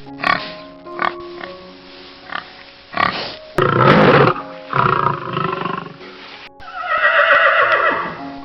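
Pig grunting in short bursts, then squealing in three longer, louder calls, over background music.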